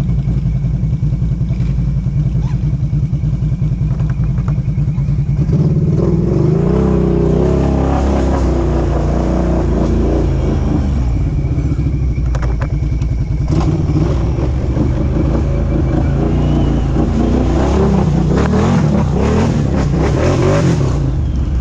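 ATV engine running steadily, then revving harder from about five seconds in, its pitch rising and falling as it works under load on a slippery climb.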